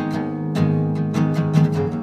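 Instrumental music: acoustic guitar strumming chords in a song's break between sung lines.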